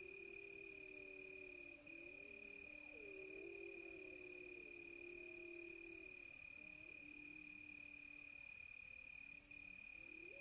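Several wolves howling together in the distance, long overlapping howls that glide up and down, thinning out near the end before a new howl rises. Beneath them runs a steady high-pitched cricket trill with pulsing insect chirping above it.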